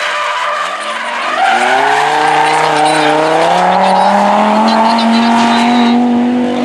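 Drift car's engine dips in revs, then climbs about a second in and is held high and steady while its tyres squeal through a sustained slide.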